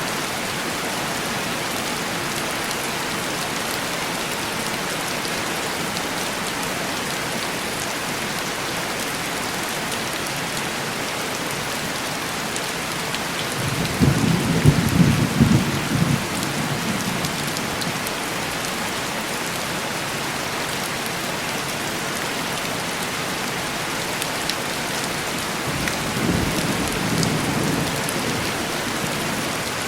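Steady heavy rain pattering on window glass. A rumble of thunder comes a little before halfway and is the loudest sound, and a weaker rumble follows near the end.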